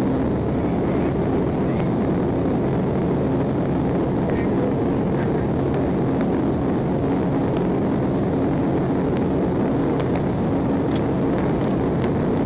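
Patrol car driving at speed: a steady drone of engine and road noise with a low hum, without letup.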